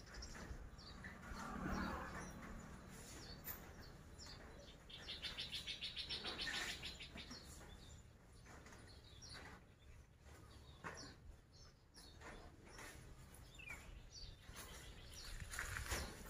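Birds chirping faintly in the background, with one rapid run of quick repeated notes lasting about two seconds about five seconds in; scattered short chirps throughout.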